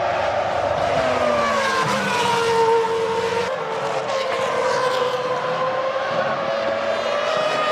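Formula One V10 engine running at a steady, moderate pitch that drifts slowly down and back up, with higher overtones above it.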